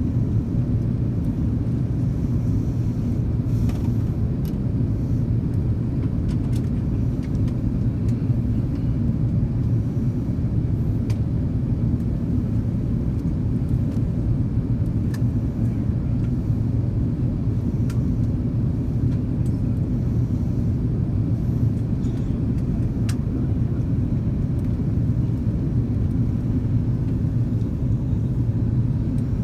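Airbus A330-200 airliner in flight: a steady, even rumble of engines and airflow, with a few faint clicks.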